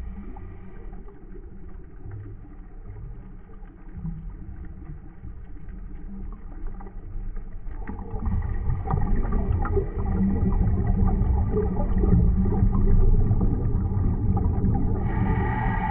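Low rumble with a steady hum heard underwater, stepping up in loudness about eight seconds in and again at about ten seconds.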